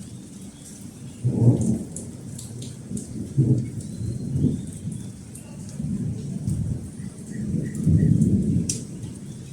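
Thunder rumbling in several low rolls over steady rain. The loudest clap comes about a second and a half in, and a longer roll follows near the end.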